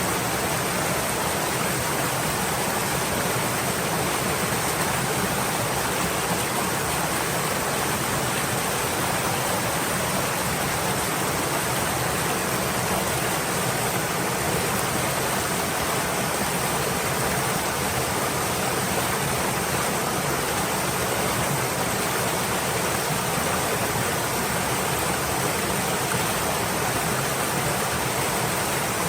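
Stream water flowing with a steady, even rushing.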